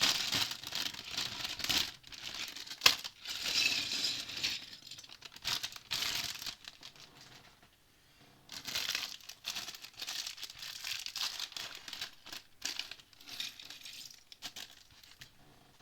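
Plastic Lego parts bag crinkling and rustling in irregular bursts as it is handled and opened, with a sharp click about three seconds in and a short lull about halfway through.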